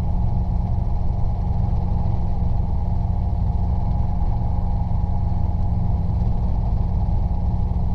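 Robinson R22 helicopter running: a steady drone of engine and rotors with a constant low hum, no change in pitch.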